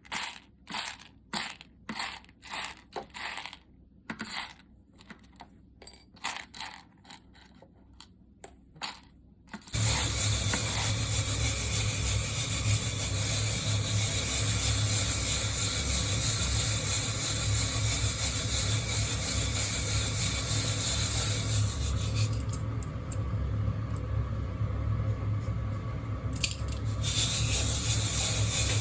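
Roasted coffee beans rattling and clicking in short bursts against a hand-held roasting net or each other, for about the first ten seconds. Then a steady, even blowing noise with a low electric hum starts suddenly and runs on, dipping in its upper part for a few seconds near the end.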